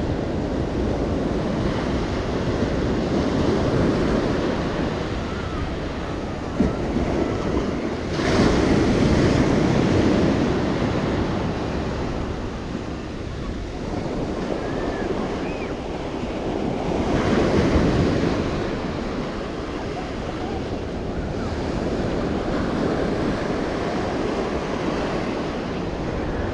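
Ocean surf washing onto the beach, swelling into louder wave breaks about eight seconds in and again around seventeen seconds, with wind buffeting the microphone.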